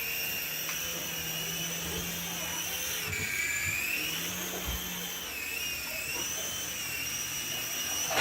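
Toy RC helicopter's small electric rotor motors whining steadily in flight, the pitch dipping and climbing back about three seconds in as the throttle changes.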